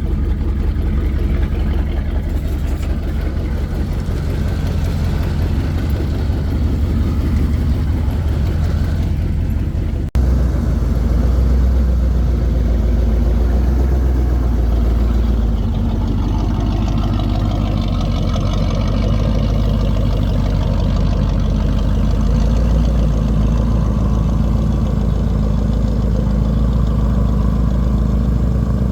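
Chevy 350 V8 in a square-body Chevy truck running steadily with a deep rumble, running again after a leaking fuel line was replaced. About ten seconds in the sound breaks off for an instant and comes back slightly louder.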